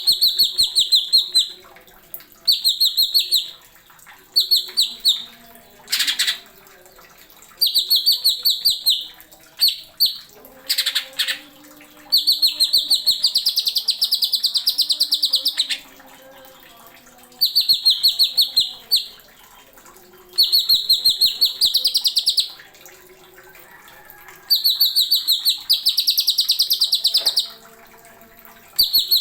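Green leafbird (cucak ijo) singing in loud bursts of rapid, repeated sharp notes. Each phrase lasts one to three seconds, with short pauses between phrases.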